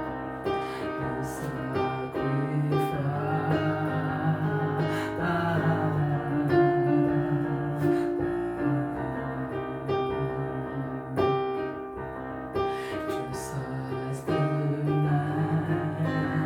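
Slow worship music on a keyboard playing a piano sound, with sustained chords and a melody line between sung phrases.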